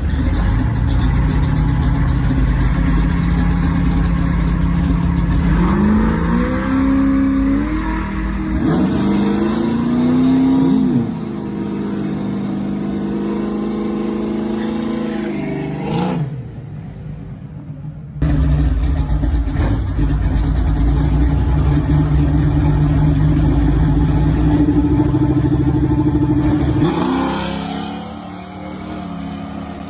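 Classic muscle car engines running and revving as cars pull away, the pitch rising and falling with acceleration. The sound drops out abruptly for about two seconds midway, then a steady loud engine run resumes and ends with another rising rev.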